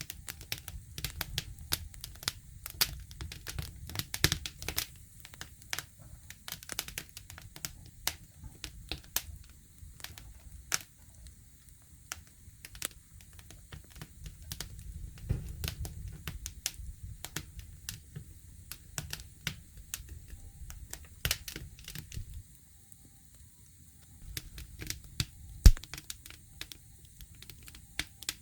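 Campfire crackling: irregular sharp pops and snaps from burning wood over a low rumble of flame, with one louder pop near the end.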